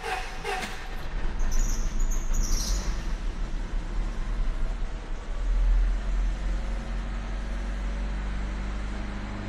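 2000 Honda Civic's four-cylinder engine just after a cold start from three months of sitting, running unevenly with a pulsing rumble, then settling into a steady idle about six seconds in. A brief high squeal comes about two seconds in.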